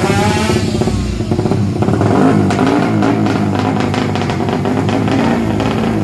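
Motorcycle engine revving, with a brief rising sweep at the start, mixed with background music with a steady beat that takes over from about two seconds in.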